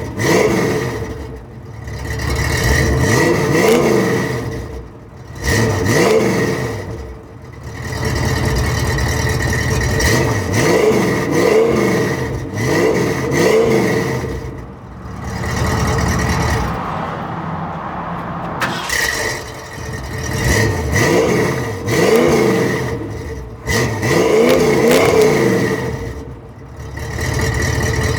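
1966 Mustang GT's 289 V8 revving again and again through a new exhaust of ceramic-coated full-length headers, an H-pipe and Flowmaster Delta 40 mufflers. Each throttle blip rises and falls in pitch, and the engine drops back toward idle between them.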